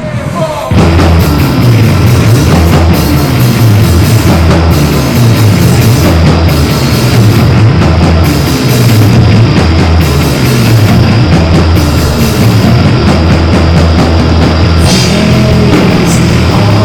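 A live rock band, drum kit, guitar and bass, comes in loudly and all at once just under a second in and plays on at full volume, with a heavy, pulsing low end.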